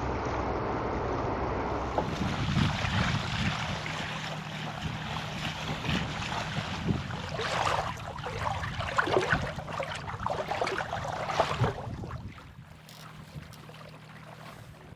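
Wind on the microphone and water rushing along a sailing yacht's hull, in gusty surges, with a steady low hum underneath. It eases off near the end.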